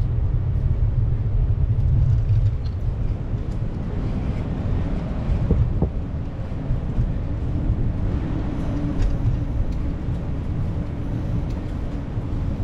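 Steady low rumble of city traffic and road noise, with a steady engine hum from about four seconds in.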